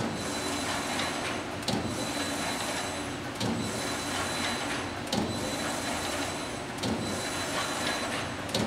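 Amada Pega 244 CNC turret punch press running an automatic loop program: a steady machine hum with a sharp knock about every second and three quarters as the press cycles. It is a crankshaft press with hydraulic clutch and brake.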